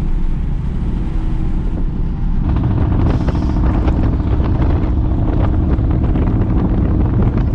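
Straight-piped Ford F-150 running on the road, its exhaust growing louder and deeper about two seconds in as it accelerates.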